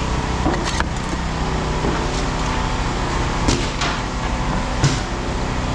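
An engine running steadily at idle, with a few sharp knocks: one about a second in, another around three and a half seconds, and a louder one near the end.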